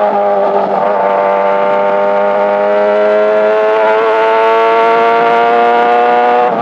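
Yamaha R6 sportbike's inline-four engine pulling hard under acceleration, its note climbing slowly and steadily in pitch as the revs build in one gear, after a brief dip near the start.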